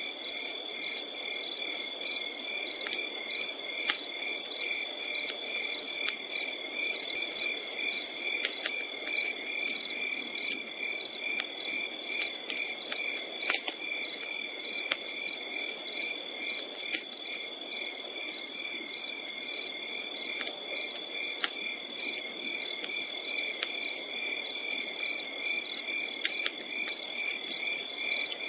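Forest insects chirping without a break: a steady high-pitched drone overlaid with fast, regular pulsed chirps. A campfire crackles underneath, with frequent sharp pops scattered throughout.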